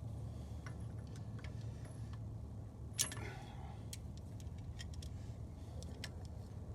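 Light metallic clicks and clinks of hand tools being handled as a caliper compressor and socket are fitted to a brake caliper, with one sharper click about three seconds in. A steady low hum runs underneath.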